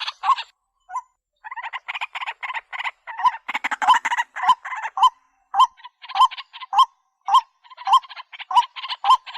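A bird calling over and over in a fast run of harsh, repeated notes, each with a short upward-hooked tone, with a brief break about a second in.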